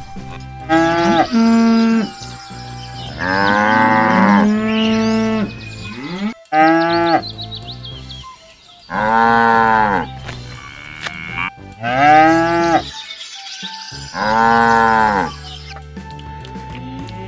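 Cattle mooing repeatedly, about seven long calls of a second or so each, spread across several seconds.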